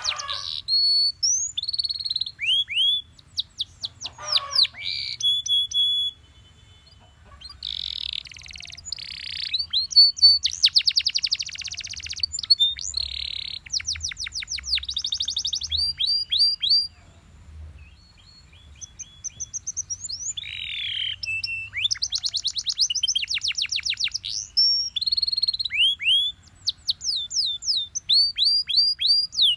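Belgian canary singing: fast trills of quickly repeated chirps, with some buzzier rolling phrases, broken by short pauses about six and eighteen seconds in.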